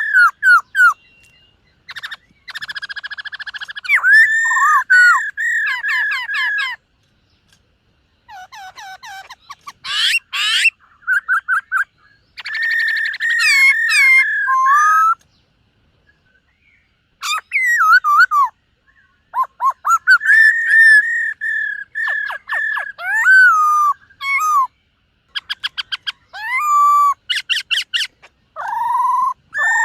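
Black-throated laughingthrush singing: loud phrases of clear whistled notes mixed with fast trills and rapid repeated chirps, broken by short pauses.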